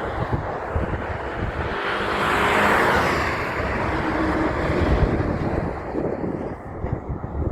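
A road vehicle passing by: its tyre and engine noise swells about two to three seconds in and then fades. Wind buffets the microphone throughout.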